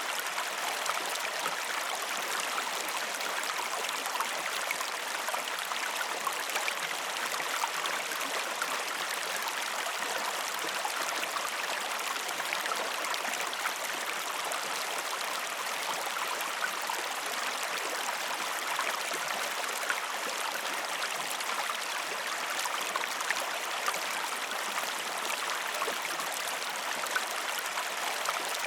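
River or stream water flowing steadily over rocks, a continuous rushing with fine trickling and splashing.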